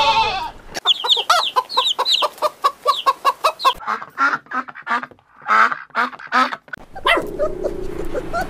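A flock of domestic geese honking in quick, short calls, several a second. It is preceded by the tail of a goat's bleat at the very start. The calls stop about seven seconds in.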